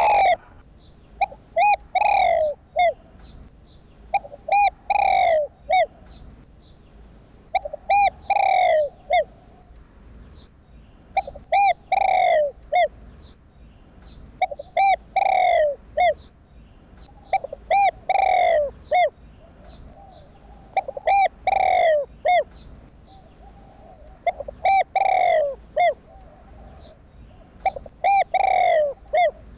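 Spotted dove cooing its repeated song: each phrase is a few short coos followed by a longer falling note, recurring about every three and a half seconds.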